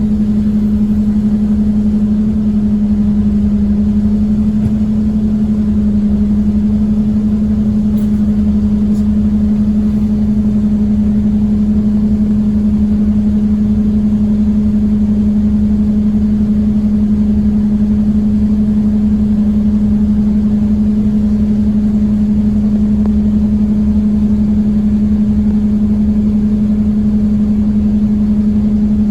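Inside a Scania OmniCity bus cruising at a steady speed: its engine and drivetrain keep up a constant hum with one strong, unchanging tone over low road rumble. A couple of faint ticks come about a third of the way in.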